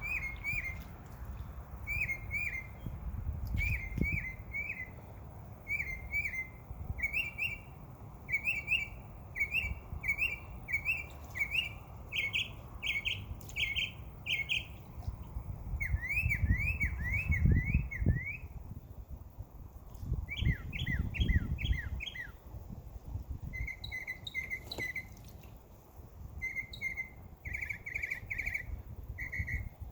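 Songbirds chirping and singing: short repeated phrases roughly once a second, a run of quick down-slurred notes near the middle, then rapid trills and short clipped notes toward the end. A low rumble runs underneath, strongest around the middle.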